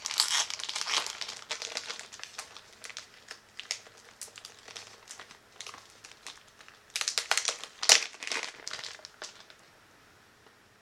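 Packaging of wax-melt chunks crinkling and crackling as it is handled, in irregular bursts with the loudest handling about seven seconds in, then dying away near the end.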